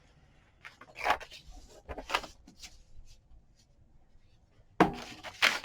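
Paper and craft supplies being handled on a work table: soft rustles and light taps, with a louder clatter about five seconds in.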